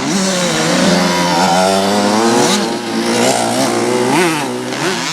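Several motocross bikes racing, their engines revving up and down with overlapping rising and falling pitches. One bike's pitch climbs sharply and drops about four seconds in.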